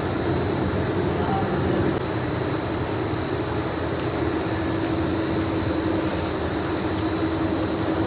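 Factory machinery in a uPVC pipe plant running steadily: an even mechanical din with a constant low hum and a thin high whine.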